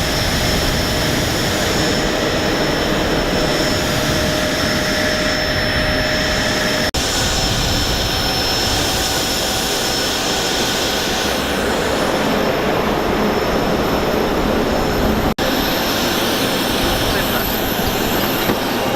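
Steady jet aircraft turbine noise: a loud rush with thin, high whining tones held over it, broken by brief dropouts about 7 and 15 seconds in.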